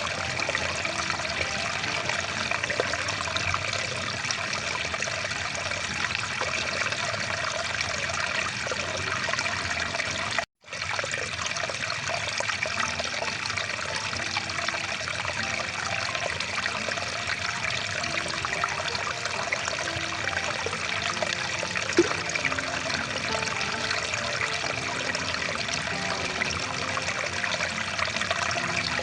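Rushing water stream: a steady rush of running water that drops out for an instant about ten seconds in.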